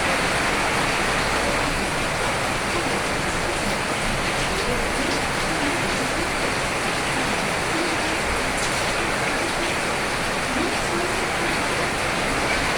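Steady heavy rain: an even, unbroken hiss of rainfall.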